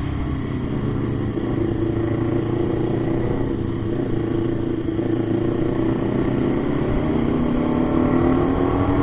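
Motorcycle engine running steadily while riding, under a low rumble of wind and road noise; the revs sag a little midway and climb again near the end.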